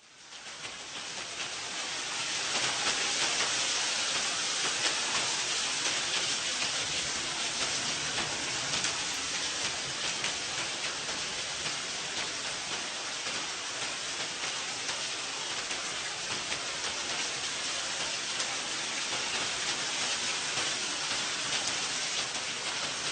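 Steady rain: a dense, even hiss of many falling drops, fading in over the first couple of seconds and then holding level.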